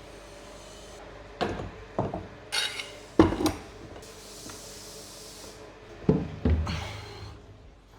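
A handful of sharp knocks and clunks, as of wooden pieces being handled and set down, in two clusters with a brief hiss in between.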